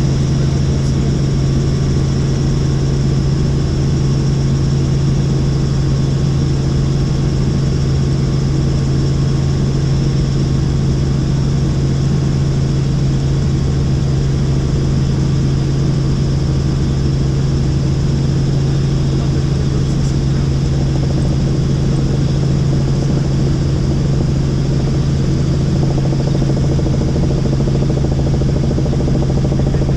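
Helicopter in flight: a steady, loud drone of rotor and turbine engine with a strong constant low hum.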